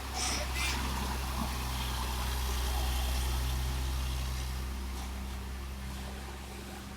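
Diesel engine of a heavy tandem-axle 'tronton' truck running with a steady low drone, gradually fading over the second half.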